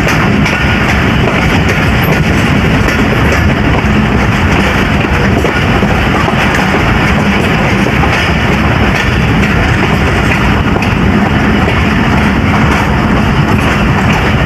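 Passenger train in motion: a loud, steady rumble and rattle of wheels on the track.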